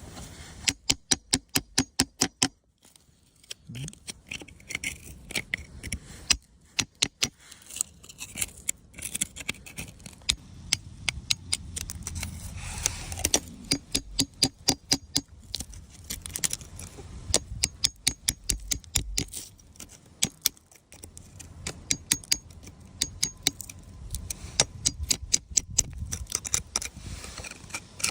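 Rapid runs of sharp clinks and taps of hard rock or crystal, in bursts of several strikes a second, with scraping between the bursts.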